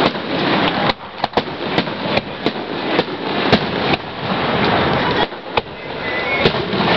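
Aerial fireworks shells bursting overhead: about a dozen sharp bangs at irregular intervals, some close together, over a continuous noisy background.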